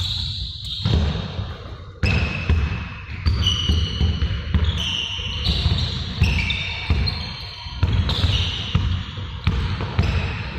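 Basketballs bouncing on a court floor, several thuds a second, with short high-pitched squeaks overlapping.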